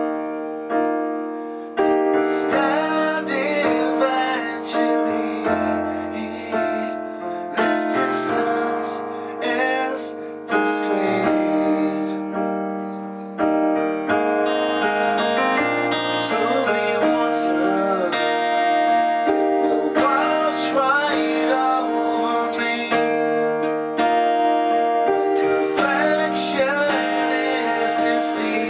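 A rock band playing in rehearsal: sustained keyboard chords over bass notes, with sharp drum hits here and there.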